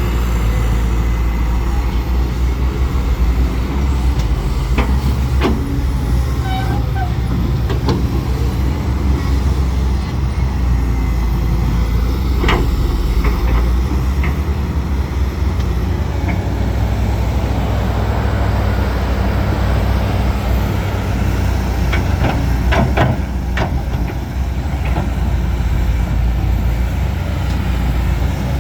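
Heavy diesel earthmoving machinery running steadily with a deep engine drone, with several sharp knocks and clanks from time to time, clustered about 22 to 23 seconds in.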